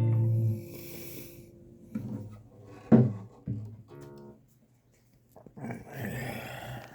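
Acoustic guitar's last strummed chord ringing, damped about half a second in and fading. It is followed by a few soft knocks and a short rustle as the guitar is handled.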